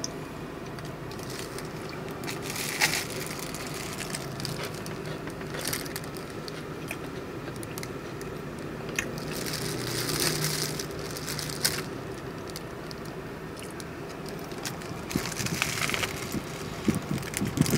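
Chewing and crunching into a crusty baguette sandwich close to the microphone, with sharp crunches scattered through, over a steady low hum.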